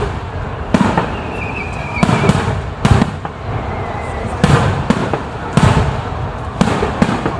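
Fireworks shells bursting in a display, a loud bang with a rumbling echo roughly every second. A faint thin whistle drifts slightly downward a little over a second in.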